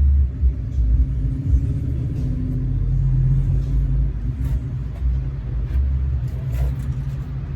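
A motor vehicle's engine running nearby, a low steady rumble with a few faint clicks over it.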